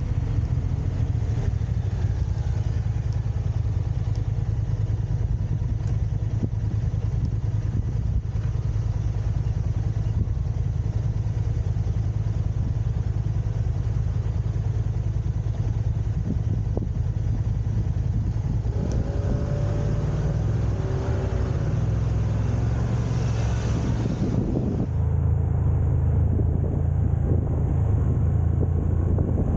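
Steady low rumble of a car being driven on city roads, engine and tyre noise heard from inside the car. A wavering higher-pitched sound joins in for a few seconds about two-thirds of the way through.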